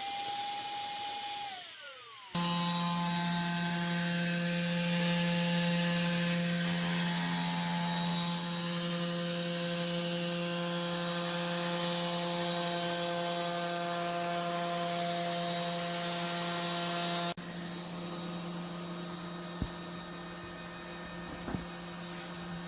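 Power tools running on wood: a high-pitched motor whine winds down about two seconds in. Then a lower, steady motor hum starts abruptly and runs on, dropping suddenly in level near the end, with a couple of faint clicks.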